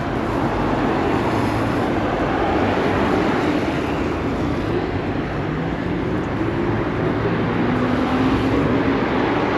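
Steady wind rush and road rumble on the microphone of a moving electric bike, with faint humming tones that drift in pitch.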